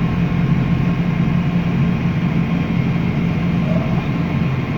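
Tractor engine running steadily under load, a constant low drone with no change in pitch.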